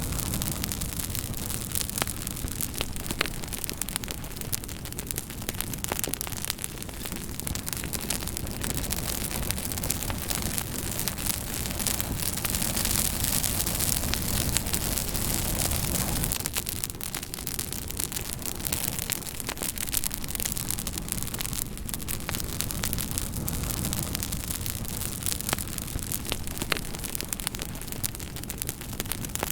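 Campfire crackling: a steady hiss and low rumble of burning wood, dotted with frequent sharp pops and snaps. The hiss swells a little louder for a few seconds about halfway through.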